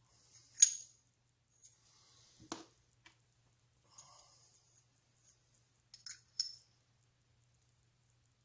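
Metal parts clinking and clicking as they are handled: a sharp clink about half a second in, a duller knock about two and a half seconds in, faint scraping in the middle, and two quick clinks near the end.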